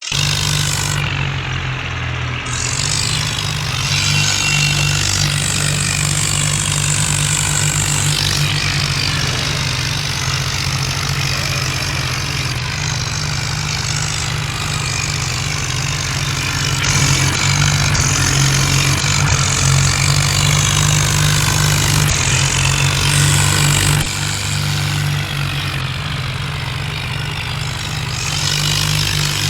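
Tractor diesel engines running steadily with a deep hum and a lot of hiss over it.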